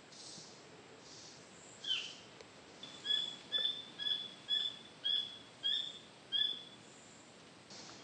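A rainforest bird calling: one downward-slurring whistle, then a run of about seven short, clear notes, roughly two a second.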